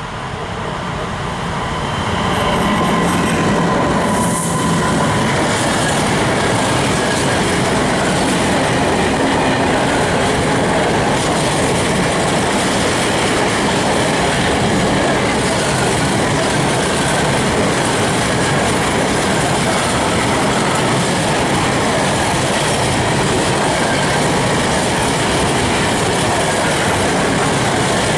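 Freight train of open coal wagons hauled by an ET26 electric locomotive, rolling past with its wheels running on the rails. It grows louder over the first two seconds, then holds steady as the wagons go by.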